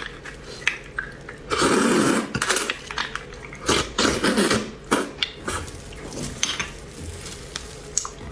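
Tableware clinking and knocking, many sharp clicks of utensils against dishes, with a louder, denser stretch of handling about a second and a half in and again around four seconds.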